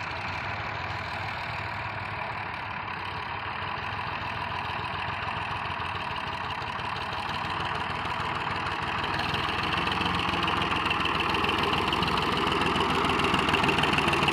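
Tractor engine running steadily, growing gradually louder from about halfway through.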